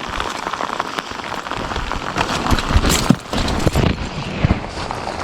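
Steady rain patter with many small ticks of drops, and scattered knocks and thumps growing stronger in the second half.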